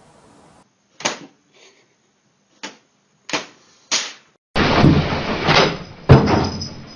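A series of sharp knocks and bangs, four separate ones, then a louder stretch of clattering with a heavy bang near the end.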